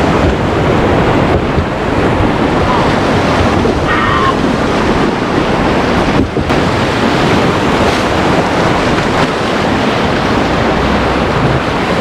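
Rushing river whitewater under the raft, a loud, steady noise, with wind buffeting the microphone. A brief distant voice is heard about four seconds in.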